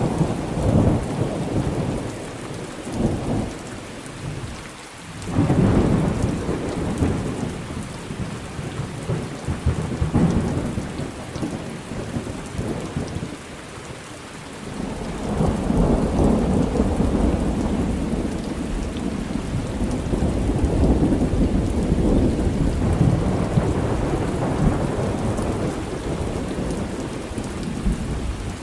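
Thunder rumbling over steady rain. A sudden rumble swells up about five seconds in, and a long rolling peal builds from about halfway and runs on to near the end.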